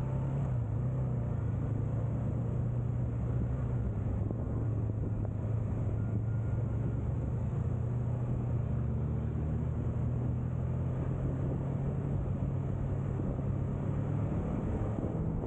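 Honda CB500X's parallel-twin engine running at a steady cruising speed, its drone holding one pitch without revving up or down.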